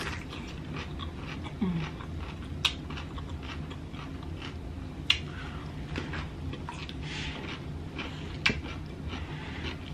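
Close-miked biting and chewing of a piece of green vegetable, with a few sharp crunches spread through, over a steady low hum.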